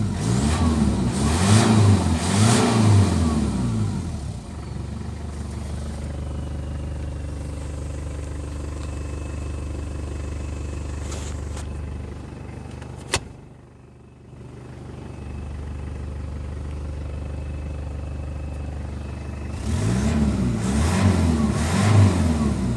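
Toyota Hilux 3.0-litre engine idling and being blipped: a few quick revs at the start, steady idle through the middle, and more quick revs near the end. A single sharp click comes about halfway through, followed by a brief drop in level before the idle picks back up.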